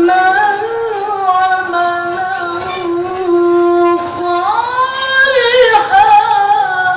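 A child reciting the Quran in the melodic tilawah style: one voice holding long notes with ornamented turns. About four seconds in there is a short break, then a new phrase that climbs higher.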